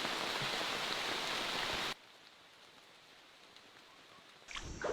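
Steady rain falling, which cuts off abruptly about two seconds in, leaving near silence. New irregular sounds begin near the end.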